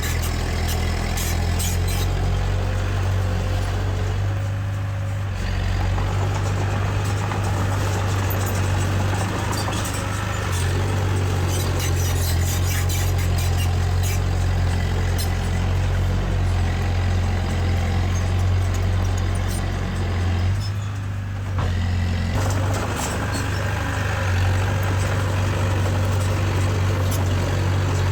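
Heavy-machinery diesel engine running steadily under load, with light metallic clanks and rattles throughout. The engine note eases off briefly twice and steps up about ten seconds in.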